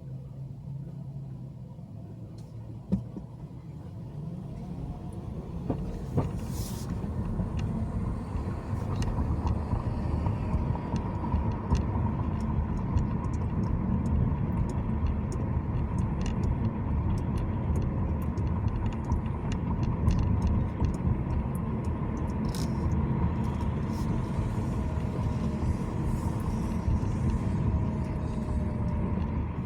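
A car driving, with a steady low road and engine rumble that grows louder about six to ten seconds in, as if picking up speed. Scattered light clicks run through it.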